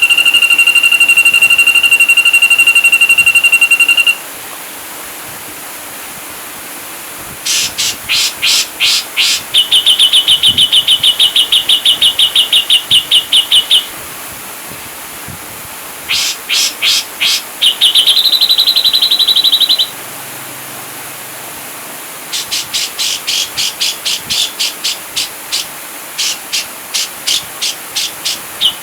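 Ashy drongo song: a long, steady, high whistle for about the first four seconds, then bouts of sharp rapid notes and fast, even trills, with a steady hiss between phrases.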